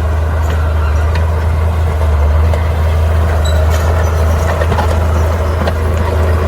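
Bulldozer diesel engine running steadily with a deep, even drone, with a few faint clicks and clanks over it.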